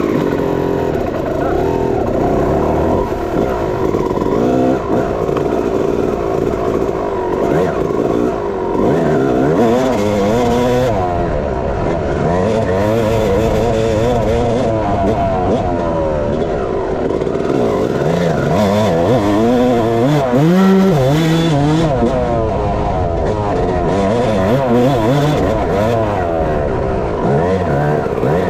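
Dirt bike engine being ridden hard, its pitch rising and falling again and again as the throttle is opened and shut through the gears.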